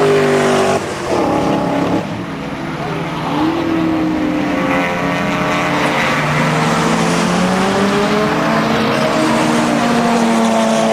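Several cars' engines running hard as they lap a race circuit. The pitch climbs under acceleration and shifts as they change gear and come off the throttle, with one car's note rising sharply about three seconds in.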